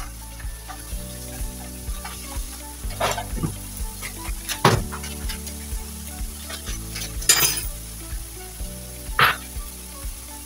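Sliced bitter melon frying in oil in a pan on a gas burner, sizzling steadily, with a few louder crackles and spits.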